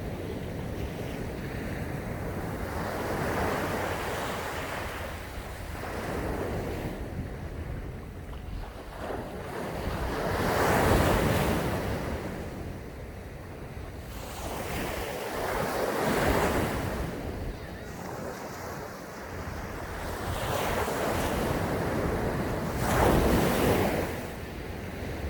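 Sea waves breaking on a sandy beach, each one swelling and washing away every few seconds, with the biggest breaks about eleven seconds in and near the end.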